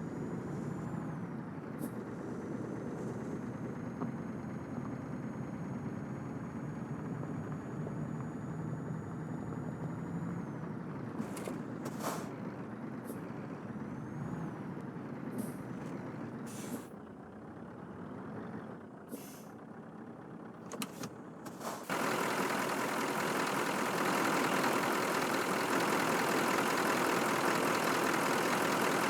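Scania truck running, with a thin high steady whine over the engine for the first ten seconds and several short sharp sounds in the middle. About two-thirds of the way through, a louder, even rushing noise suddenly takes over.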